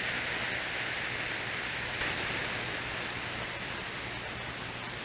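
CB radio receiver hissing steady static from its speaker over a faint low hum, with no readable voice on the channel; it fades a little toward the end.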